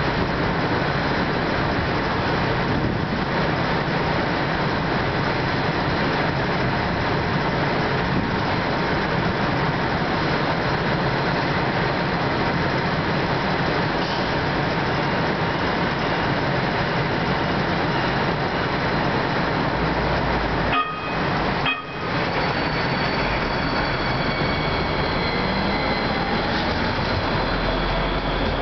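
Hudson-Bergen Light Rail two-car train at a street-side station, a steady running noise with faint steady whines over it. The sound briefly cuts out about 21 seconds in, and faint rising whines appear in the last few seconds as the train gets under way.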